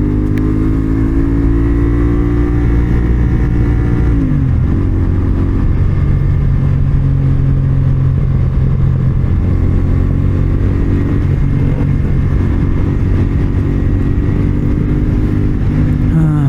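CFMoto 450SR's parallel-twin engine running as the motorcycle is ridden, its note dropping sharply about four seconds in, then holding steady and rising again near the end.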